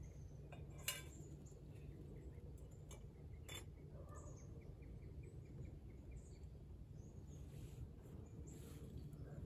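Quiet outdoor ambience: faint bird chirps and a short rapid trill about halfway through, over a low steady rumble, with a sharp click about a second in.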